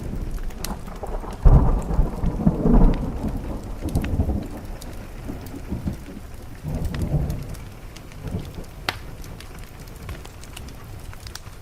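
Thunder rumbling over steady rain on a window: a deep roll swells about a second and a half in, with further rumbles around four and seven seconds before it dies back to the rain. A few sharp ticks sound through it.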